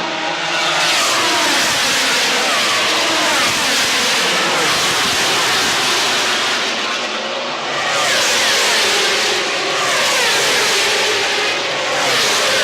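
Racing motorcycles passing at speed in succession, each one's pitch falling as it goes by, in several loud waves.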